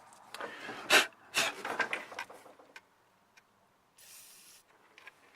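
A few sharp clicks and rustles from handling tools and parts, then a short, even hiss about four seconds in.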